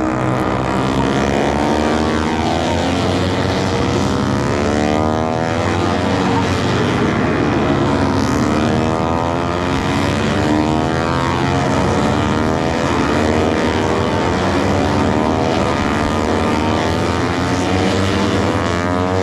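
Racing motorcycles lapping the circuit: several engines at once, loud, their pitch climbing and falling as the bikes accelerate, shift and brake, with sharp drops in pitch as bikes pass by.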